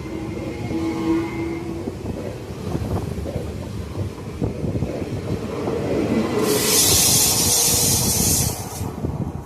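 Train at a station, with a steady rumble and faint whining tones in the first two seconds. About six seconds in, a loud high hiss starts and runs for about two and a half seconds.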